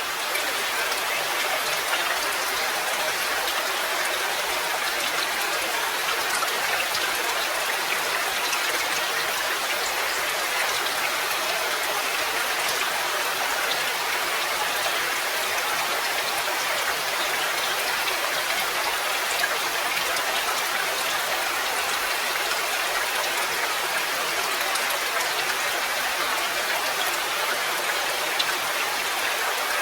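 Steady rain: an even hiss of many drops falling, with fine scattered drop ticks and no change in strength.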